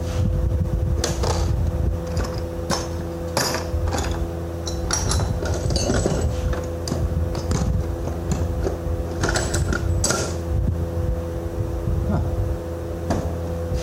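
A motor runs steadily with a low drone and a constant hum, while metal tools clink and tap at irregular intervals.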